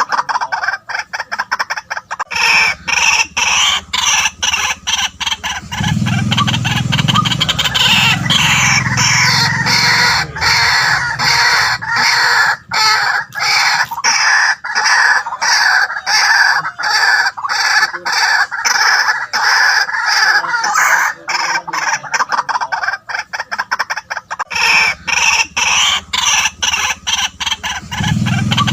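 White-breasted waterhen calling: a loud, unbroken run of harsh notes repeated several times a second.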